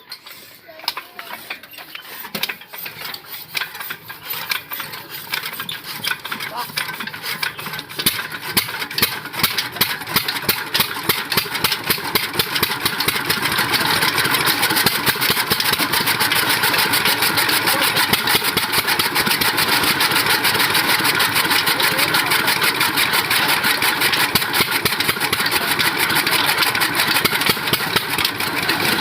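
A 12 hp diesel engine starting up. Slow, separate beats speed up and grow louder over the first dozen or so seconds, then settle into a steady, fast beat at running speed.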